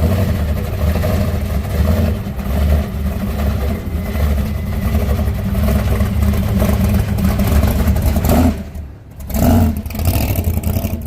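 A classic car's engine running loud and low as the car drives out. It drops away sharply about eight and a half seconds in, then swells briefly a second later.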